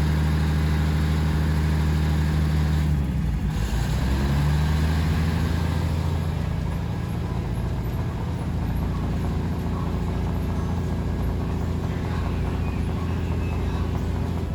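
Diesel train engine running steadily; its note drops away briefly about three seconds in, then picks up again.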